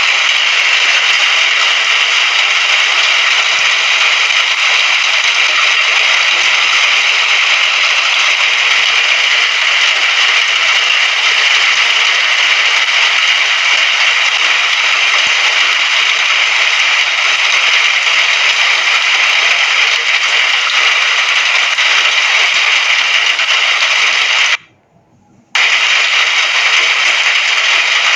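Rain falling in a steady, dense hiss. It cuts out for under a second near the end, then comes back.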